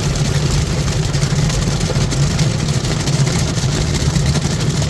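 Ryko Softgloss MAXX 5 soft-touch car wash working over the car, heard from inside the cabin: a steady, loud rumble of wash machinery and spray, with no breaks or changes.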